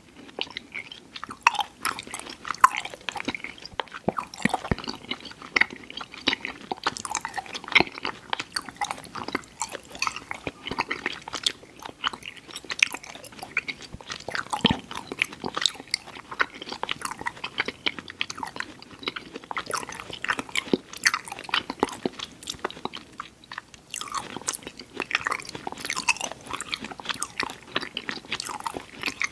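Close-miked chewing of chewy Airheads Xtremes sour candy: a continuous run of wet, sticky mouth clicks and smacks.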